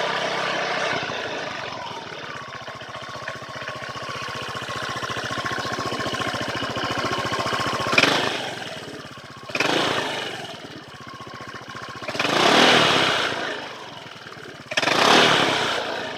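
Honda PCX125 scooter's single-cylinder four-stroke engine, fitted with a Moriwaki aftermarket exhaust, idling steadily. From about eight seconds in it is revved four times in short throttle blips, each rising and falling away.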